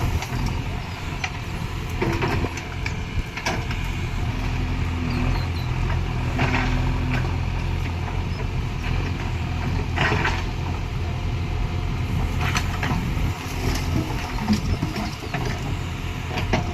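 Diesel engine of a JCB backhoe loader running steadily while it loads soil, with occasional sharp clanks and creaks from the bucket and arm, about five in all.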